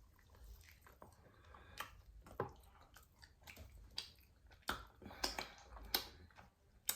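A person chewing food with wet mouth clicks and smacks, irregular and a few seconds apart.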